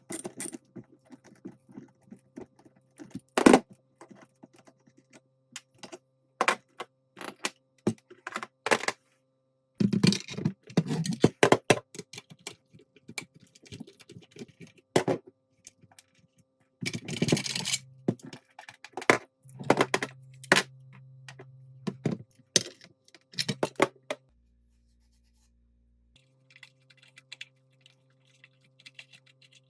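Irregular clicks, knocks and short scrapes of metal parts and hand tools being handled on a workbench while a Bostitch N80S pneumatic nailer is taken apart.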